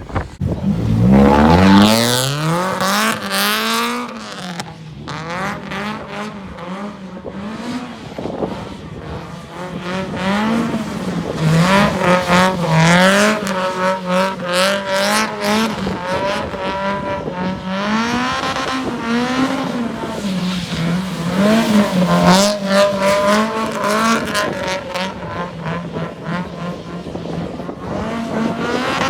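Car engine revved hard while drifting: its pitch climbs steeply in the first couple of seconds, then rises and falls over and over as the throttle is worked, with tyres squealing on the skid pan.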